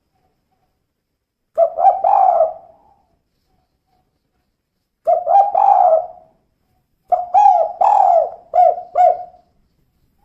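Female spotted dove cooing: three phrases of short, low coos, the last a run of about five notes.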